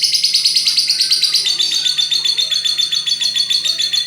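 Lovebird singing a long ngekek: a rapid, unbroken chatter of short shrill notes, settling slightly lower in pitch partway through.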